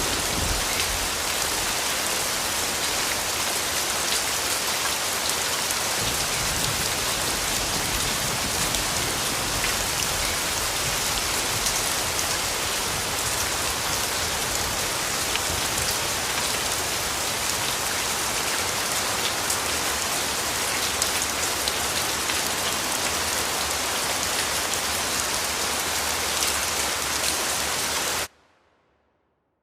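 Steady rain falling, a dense even hiss of drops with fine individual patters. It cuts off suddenly near the end.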